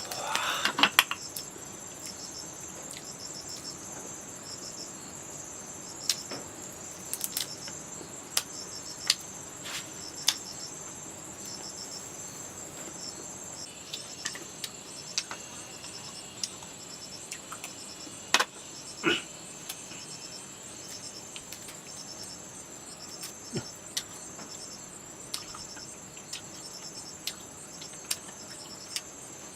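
Insects trilling, a continuous high-pitched pulsing chorus, with scattered sharp clicks and snaps over it.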